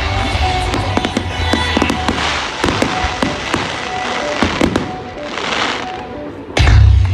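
Fireworks display: a dense run of crackling pops and bangs over music from loudspeakers, with a heavy, loud boom about six and a half seconds in.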